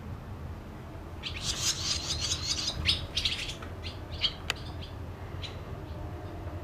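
Barn swallows twittering: a dense run of rapid high chirps starting about a second in, thinning to scattered single chirps after about three seconds.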